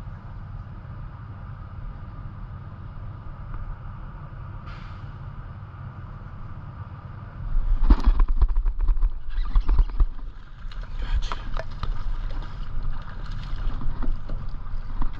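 Steady low rumble, then from about halfway a louder run of sharp knocks, clicks and thumps on a kayak, as of a fish and gear being handled aboard.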